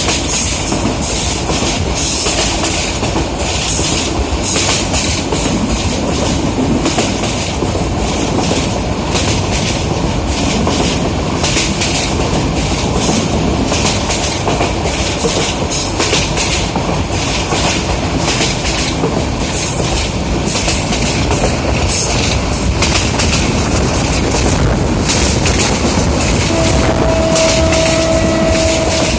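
Passenger train running at speed, its wheels clattering over the rail joints in a continuous loud rumble. A steady pitched tone sounds for about three seconds near the end.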